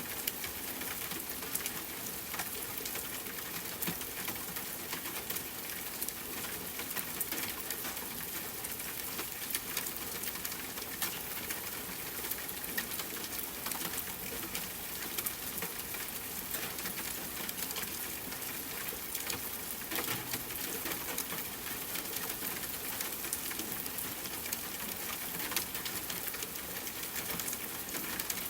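Steady rain falling, an even hiss, with the frequent small crackles and pops of a campfire burning.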